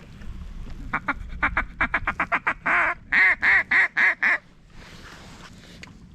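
Mallard duck call blown close to the microphone: a fast run of short clucks about a second in, then a longer quack and a cadence of five quacks.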